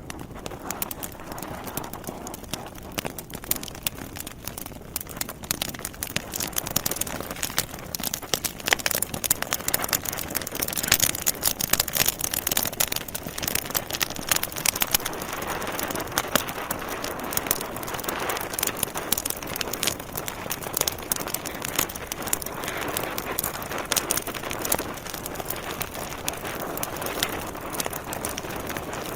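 Wood fire burning in a fireplace, with dense, irregular crackles and pops from the logs over a steady hiss of flame; the crackling is busiest about a third of the way in.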